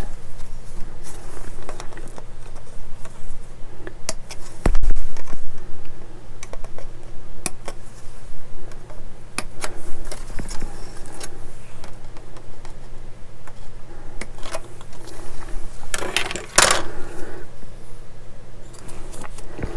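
Plastic model-kit sprue frames handled and parts clipped off them with sprue cutters: scattered light clicks and clatter, a heavier thump about five seconds in and a louder rustling clatter near the end.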